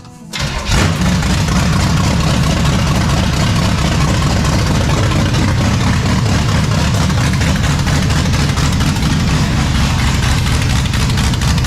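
Camaro RS's freshly rebuilt engine catching about half a second in, then running loud and steady at idle.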